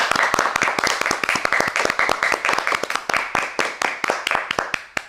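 Applause of many quick overlapping claps, dying away near the end.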